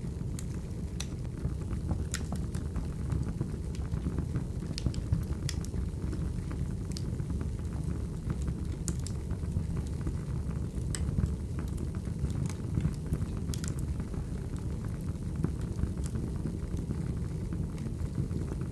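Wood fire burning: a steady low rumble with sharp crackles and pops scattered at irregular intervals.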